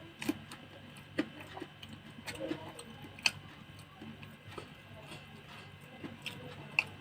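Close-miked eating: quiet chewing with a few sharp, irregular clicks, the loudest at about three seconds and near the end.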